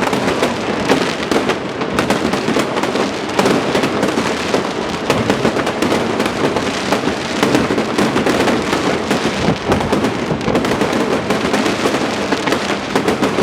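Fireworks display going off in a dense, unbroken run of crackles and bangs.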